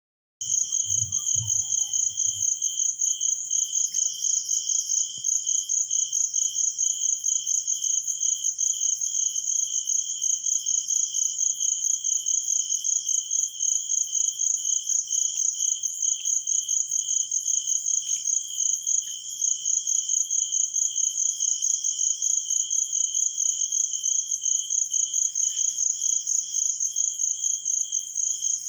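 Insect chirping in a fast, even pulse that never lets up, a high cricket-like trill, starting suddenly just after the beginning. A brief low rumble sits under it in the first two seconds.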